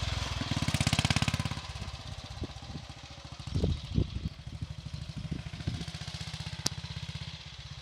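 1941 Ariel WNG's 350 cc single-cylinder four-stroke engine pulling away, loud at first, then dropping after about a second and a half to a quieter, steady running note.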